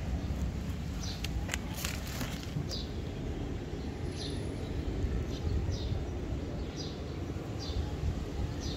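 Outdoor ambience: a low, steady rumble with short, high bird chirps scattered through it, and a few sharp clicks between one and two seconds in.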